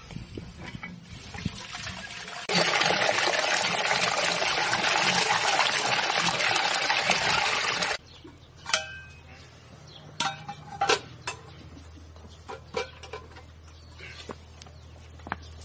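Water pouring or running in a steady rush for about five seconds, starting and stopping suddenly. Before and after it come scattered light clinks and knocks.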